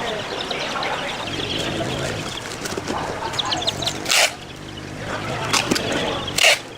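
Chickens and chicks calling, with two short, loud, noisy bursts about four and six and a half seconds in.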